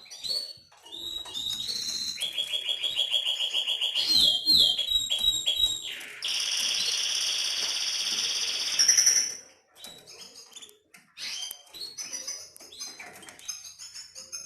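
Domestic canary singing: fast trills, then a long, even rolled note from about six to nine seconds in, followed by scattered short chirps.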